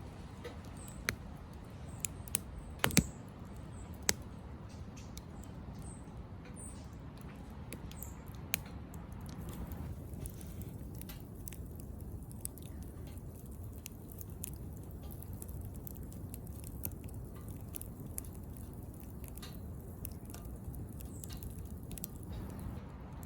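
Twigs burning in a small metal wood stove: irregular sharp crackles and pops over a steady low rumble of the fire. The pops are most frequent and loudest in the first few seconds.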